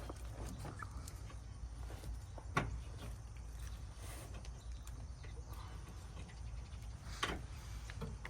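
Two short, sharp knocks, about two and a half seconds and seven seconds in, from work on the car's exhaust, over a low steady hum.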